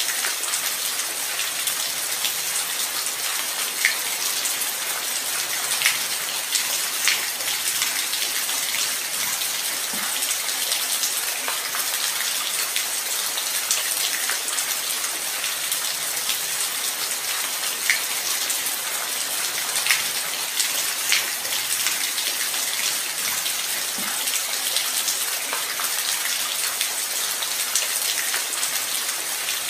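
Steady light rain: an even hiss of falling rain with scattered individual drops ticking close by.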